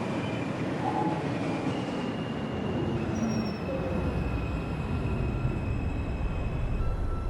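Inside an R142 subway car: the train rolling and slowing into a station, a steady rumble of wheels on rail with thin, high-pitched whines and squeals from the wheels and brakes.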